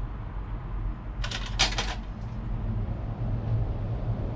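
A quick cluster of sharp plastic clicks, from handling and switching on a plug-in temperature controller, over a steady low hum.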